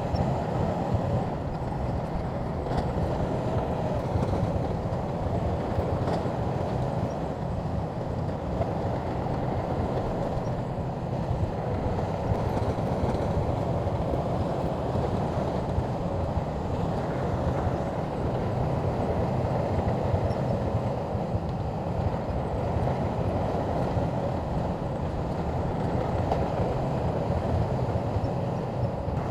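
Shantui crawler bulldozer's diesel engine and tracks running steadily, with no change in level.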